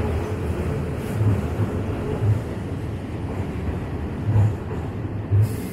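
Electric commuter train running past on the adjacent track: a steady rumble of wheels on rail, with dull low thuds from the wheels over the rail joints, twice about a second apart and again twice later on.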